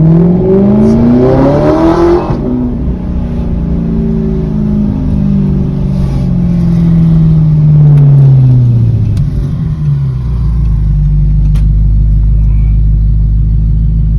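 Straight-piped, naturally aspirated V8 of an Audi R8 accelerating hard, its revs climbing steeply for about two seconds, then holding and falling away as the car slows. About ten seconds in it settles into a steady low idle rumble.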